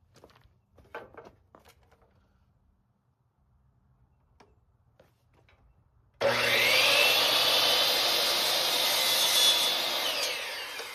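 An electric power saw starts about six seconds in with a rising whine and cuts through a luxury vinyl plank, then winds down with a falling whine near the end. A few faint taps come before it.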